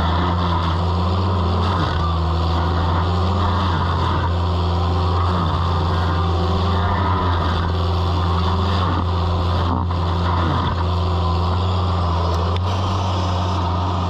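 Toro Dingo mini skid steer running steadily at a constant engine note, with a weaker tone over it that swoops up and down every second or two.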